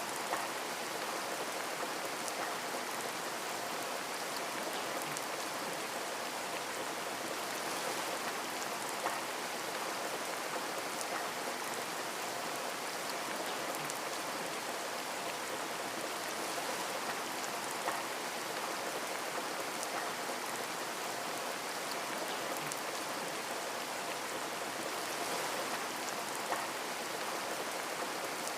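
Steady rain pattering on a window, with now and then a single louder drop tick.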